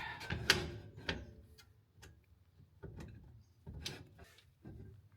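Irregular metal clicks and light knocks from a caravan brake drum hub being worked onto its greased axle stub.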